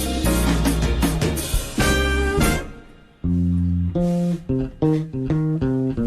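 Instrumental band music: the full band with drums plays, breaks off about two and a half seconds in, and after a short gap a plucked bass and guitar line carries on in separate notes.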